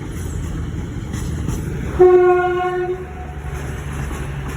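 A train horn sounds one steady note for about a second, about two seconds in, over the low rumble of a train running.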